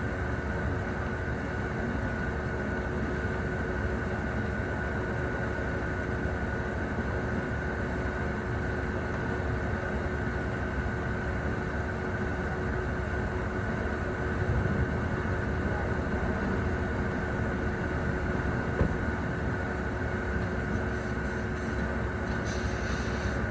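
Heavy machinery running steadily, a constant low rumble with a steady whine over it. A short hiss comes near the end.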